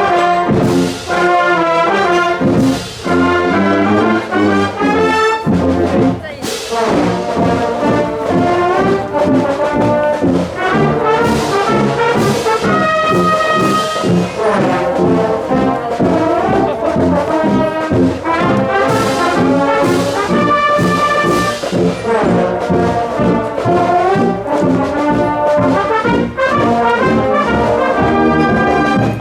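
High-school marching brass band playing a tune, trombones and trumpets carrying the melody over percussion that keeps a steady beat.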